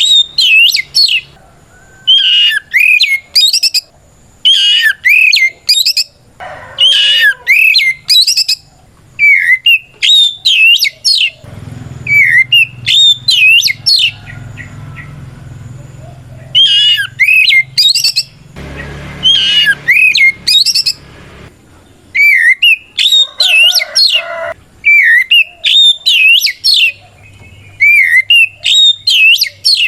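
Oriental magpie-robin (kacer) singing loud, clear whistled phrases: quick runs of sweeping notes in bursts, with short pauses between and a longer lull a little before the middle. It is the open, challenging song that calls out a rival male.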